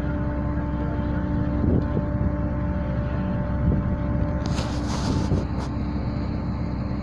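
Cable ferry under way, its engine and cable-drive machinery running with a steady low rumble and a constant hum. A brief hiss comes about two-thirds of the way through.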